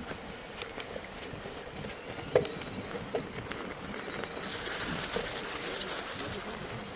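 Bicycle riding over a snowy mountain trail: tyre noise with scattered clicks and knocks, the sharpest about two and a half seconds in, and a hiss for a little under two seconds from about four and a half seconds in.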